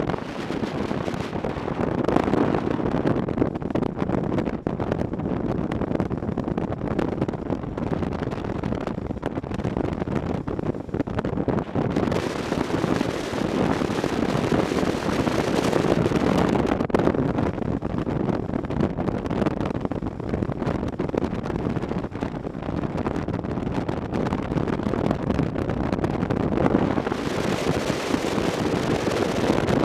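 Wind rushing over the microphone of a motorcycle on the move, with the bike's running and road noise underneath. The hiss grows stronger twice, about twelve seconds in and again near the end.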